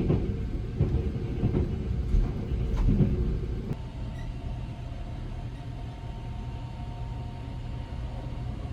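The 285-series Sunrise Izumo sleeper train running, heard from inside. For a few seconds there is a heavy rumble with several knocks. About four seconds in it changes abruptly to a steadier, quieter hum with a faint steady whine.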